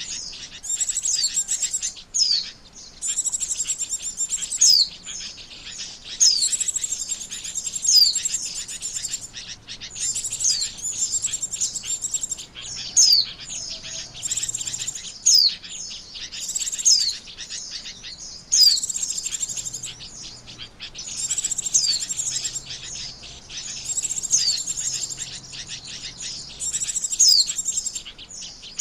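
White-eye (pleci) song played as a lure call: rapid high twittering with quick falling whistles, in phrases of a second or two separated by short pauses.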